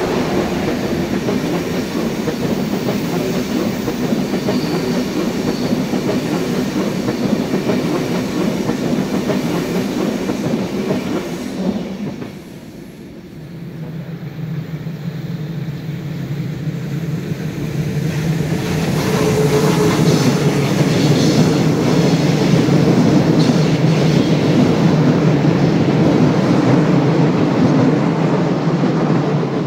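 Two passenger trains rolling over a curved viaduct, wheels clicking over the rail joints. First the coaches of an ÖBB Railjet rumble past close by and fade about 12 seconds in. Then a regional push-pull train approaches and rolls by, louder from about 19 seconds in.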